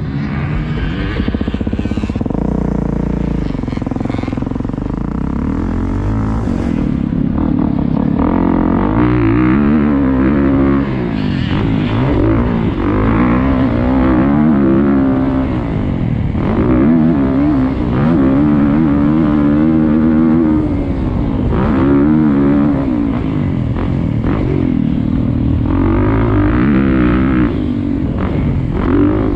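Motocross bike engine revving up and falling back again and again, its pitch rising and dropping every couple of seconds as it accelerates, shifts and backs off through the track's sections.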